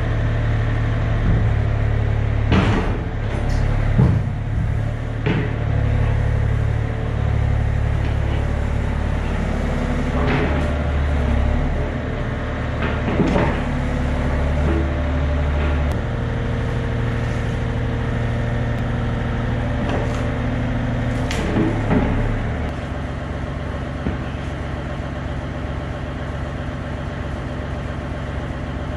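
Yanmar excavator's diesel engine running steadily, with a handful of sharp metal clanks and knocks. The engine note changes about halfway and settles lower near the end.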